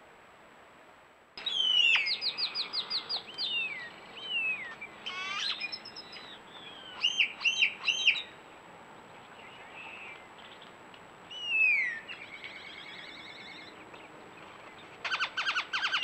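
Songbirds singing: a mix of quick chirps, rapid trills and down-slurred whistles from more than one bird, starting abruptly about a second in and coming in bouts.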